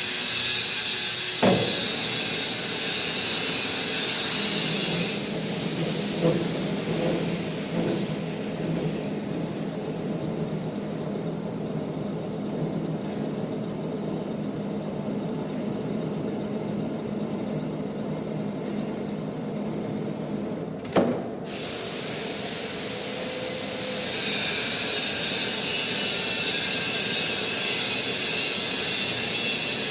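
Manual metal lathe running, with a loud hiss in the first few seconds that drops away, a quieter steady hum through the middle, and the hiss returning about three quarters of the way in. Two single clicks, one a second or two in and one about two thirds of the way through.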